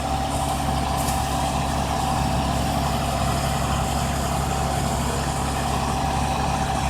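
Tow truck engine idling steadily: an even hum with a thin steady tone over it.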